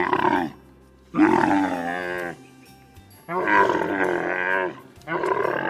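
Camel calling: a string of four wavering, moaning calls, each about one to one and a half seconds long, with short pauses between them.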